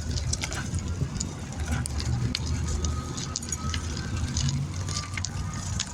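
Bicycle being ridden, with a steady low rumble and many small clicks and rattles.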